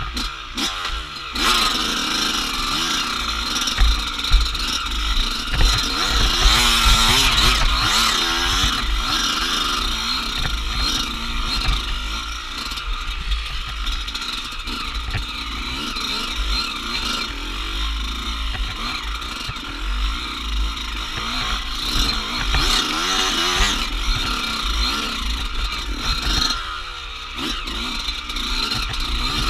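Off-road dirt bike being ridden over a rough trail, its engine revving up and down as the throttle is worked, with a heavy low rumble and clatter underneath.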